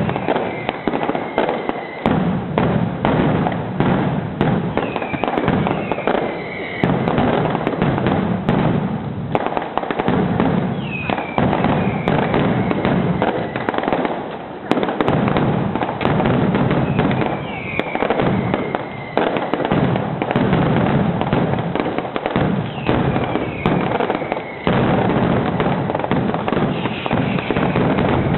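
Fireworks display going off continuously: a rapid, unbroken run of bangs and crackles over a low rumble, with a short falling whistle about every five to six seconds.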